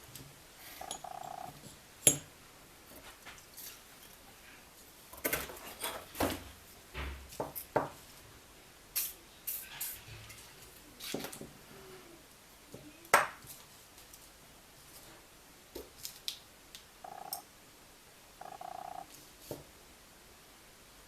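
Engine parts and hand tools being handled on a workbench: scattered clicks and clinks with two sharp knocks, one about 2 s in and one about 13 s in, and a few short buzzing bursts.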